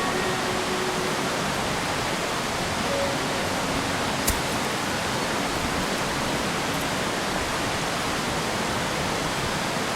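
Steady rushing noise, with a single sharp click about four seconds in.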